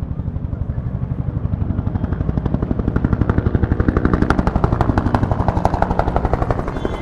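Helicopter close by, its main rotor beating in rapid, even pulses over a low engine drone; the beat grows louder to a peak about four to six seconds in, then eases a little.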